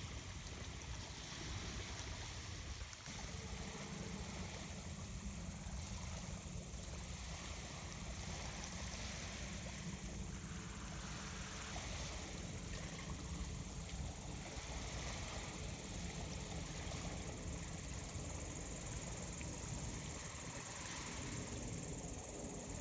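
Sea waves washing onto the shore in a steady wash, with a low rumble underneath.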